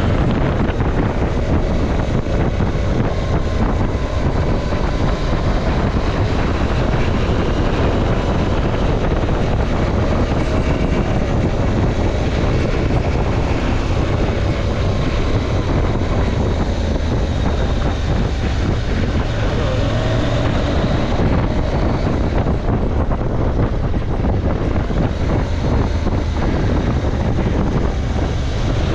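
KTM 790 Adventure's parallel-twin engine running under way, its revs rising and falling, beneath heavy wind noise on the camera microphone.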